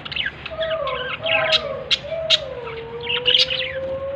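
Budgies chattering with quick high chirps and trills. A long, wavering, lower-pitched tone runs underneath from about half a second in.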